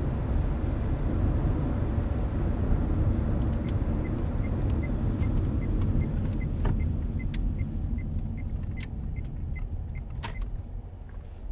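Car road rumble heard from inside the cabin, easing off toward the end as the car slows. About three and a half seconds in, a turn-signal indicator starts ticking steadily, about two and a half ticks a second, with a few sharper clicks among them.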